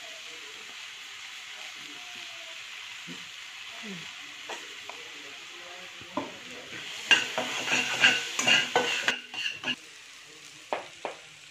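Scrambled egg frying in a metal wok, with soy sauce and red chilli sauce just added, gives a steady sizzle. From about six seconds in, a metal spatula scrapes and knocks against the pan as the mixture is stirred, and this is the loudest part.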